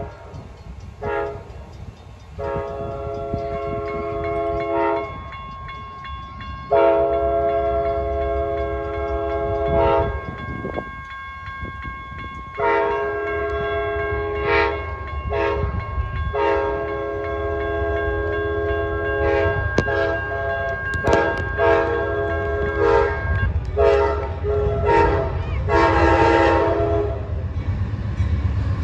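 Amtrak locomotive's multi-tone air horn sounding repeated long and short blasts, the grade-crossing signal, while the train approaches. The low rumble of the train grows stronger over the second half, and the last blasts are the loudest.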